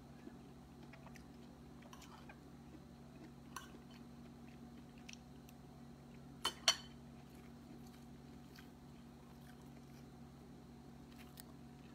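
Close-up eating sounds: a person chewing a fried egg omelet, with scattered light clicks and taps and two sharper clicks in quick succession about halfway through, over a steady low hum.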